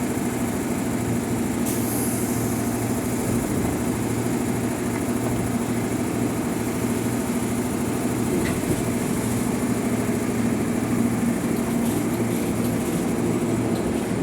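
Electric commuter train's steady electrical hum with a low drone, holding an even pitch throughout.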